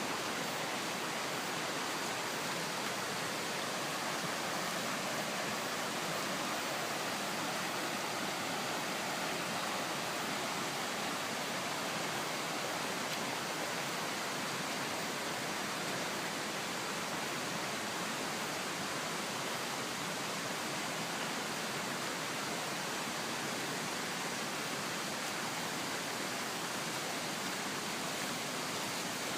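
Kanme Falls waterfall: a steady rushing of falling water, unchanging in level.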